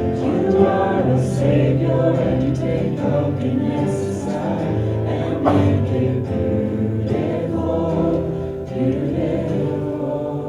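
Many voices singing a contemporary Christian worship song together, with instrumental accompaniment.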